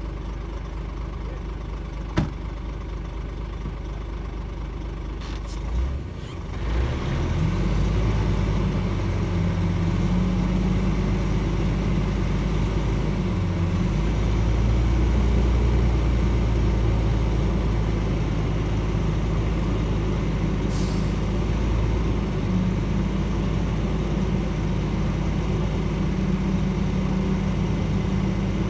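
Shantui DH17C2 bulldozer's diesel engine running steadily, then about six seconds in it revs up and runs louder with a deep hum. A single sharp click comes about two seconds in, and a short hiss near twenty-one seconds.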